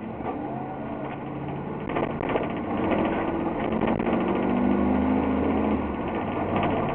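Propane-fuelled Blue Bird Vision school bus engine (a Ford V10) running under way, heard from inside the bus. Its note climbs as it pulls away and accelerates between about three and six seconds in, over a steady rattle of the cabin.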